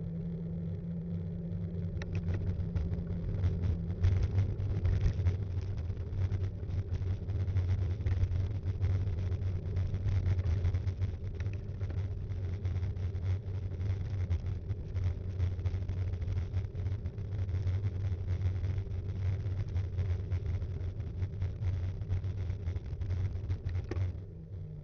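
Btwin Rockrider 5.1 mountain bike riding along, its mounted action cam picking up a steady low rumble and dense rattling from about two seconds in, which drops away shortly before the end.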